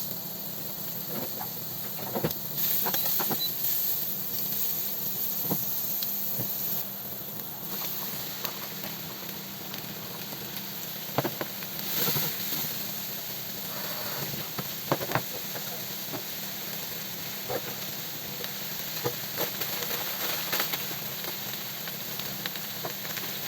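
Food sizzling in a frying pan, a steady hiss. A cooking utensil knocks and scrapes against the pan now and then as the food is stirred.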